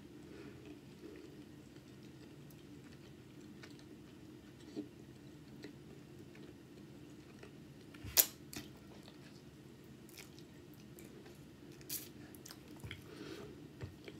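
A person chewing a mouthful of food with the mouth closed: soft wet mouth sounds with scattered sharp clicks and smacks, the loudest about eight seconds in, over a faint steady hum.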